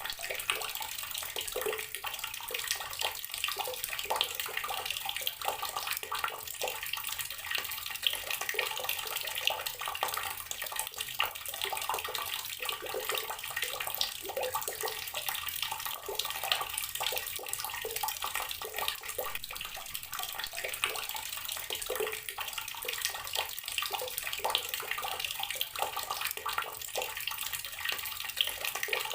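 Water running steadily from an outdoor tap and splashing onto the ground below.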